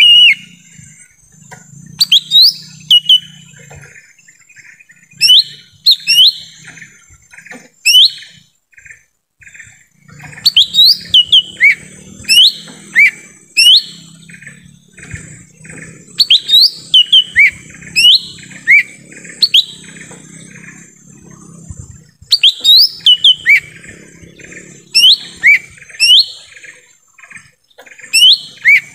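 Lesser green leafbird (cucak ijo mini) calling: loud, sharp, down-slurred whistled notes repeated in quick clusters of two to four. A softer rapid chatter runs beneath them, over a steady thin high tone.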